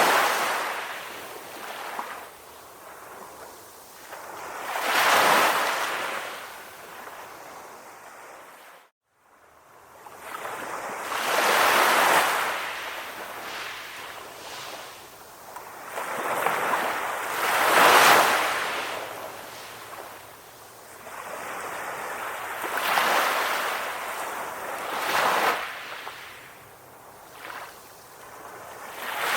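Calm ocean waves washing in, each one swelling and fading over a few seconds, about one every five to six seconds. The sound cuts out completely for half a second about nine seconds in.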